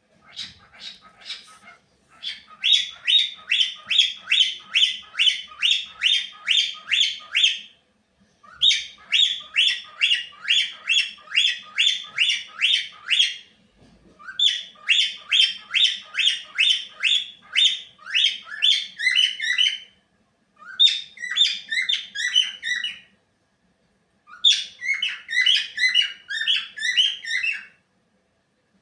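Pet cockatiel chattering: quick runs of repeated high chirps, about three a second, in several bouts of a few seconds each with short pauses between.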